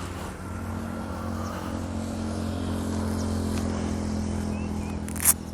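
TVS Apache RR 310's single-cylinder engine idling steadily at one even pitch. A single sharp click near the end.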